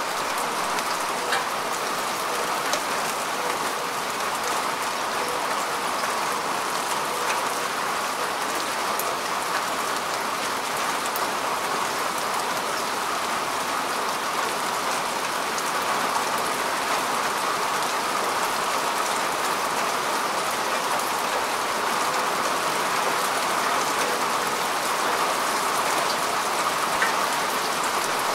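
Steady rain falling on grass and soil, a dense even patter with scattered individual drop ticks.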